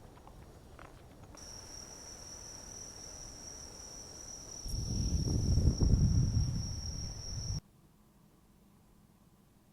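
Insects singing: one steady, high, unbroken drone starts a little over a second in and cuts off suddenly near the end. A loud low rumble joins it for its last three seconds and is the loudest sound.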